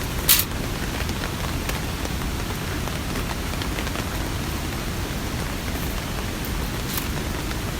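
Steady rainfall, with scattered drops ticking. One louder sharp tap comes about a third of a second in.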